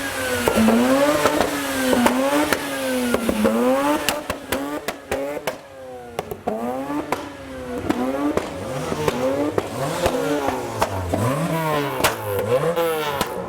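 A car engine revved over and over, its pitch climbing and falling about once a second, with a run of sharp exhaust pops and crackles partway through.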